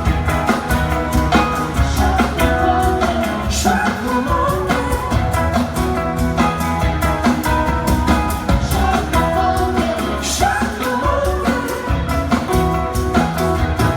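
Live rock band playing with sung vocals over a steady drum beat and heavy bass.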